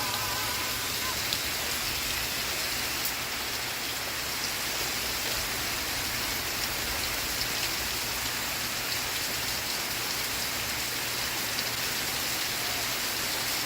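Steady rain falling, with scattered single drops ticking out above the hiss.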